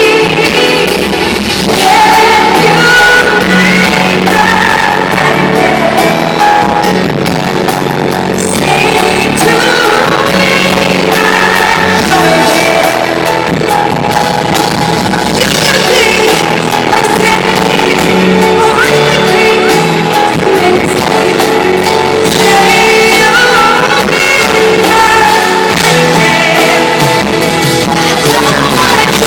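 Live pop ballad: a woman singing over loud amplified band accompaniment.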